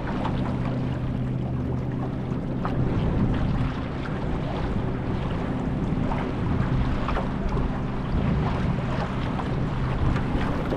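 Boat engine running steadily underway, a low even hum, with water splashing against the hull and wind buffeting the microphone.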